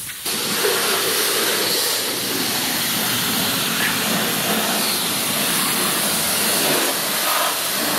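Car-wash pressure washer wand blasting a high-pressure water jet against the underside of a leaf blower: a steady hiss of spray that starts abruptly just after the start.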